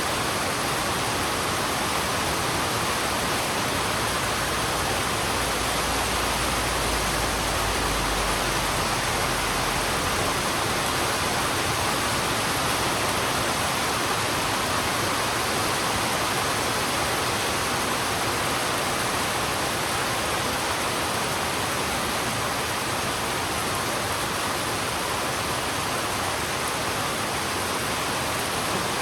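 Heavy rain falling steadily, an even, dense hiss with no breaks. A low rumble sits underneath from about five to ten seconds in.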